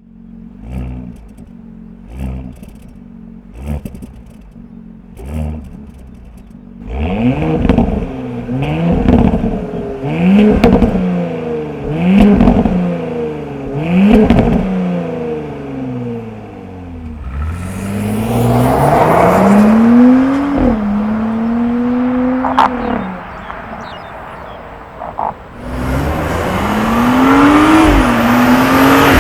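Porsche E3.1 Cayenne with a valvetronic catback exhaust and GPF: it first runs quietly with short throttle blips about once a second with the exhaust valves closed. About seven seconds in the valves are open and it gives a series of sharp free revs that rise and fall. Then comes the acceleration sound: long climbing pulls that drop suddenly twice, like upshifts.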